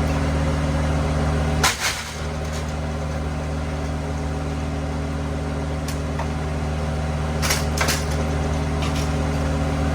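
Engine running at a steady idle, with a sharp knock about two seconds in and two more sharp knocks near the end.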